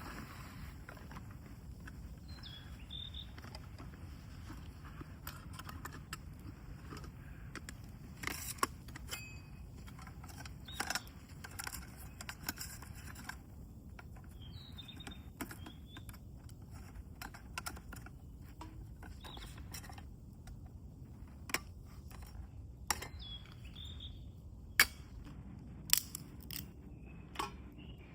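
Scattered sharp clicks and taps over a steady low outdoor rumble, with a few short bird chirps now and then.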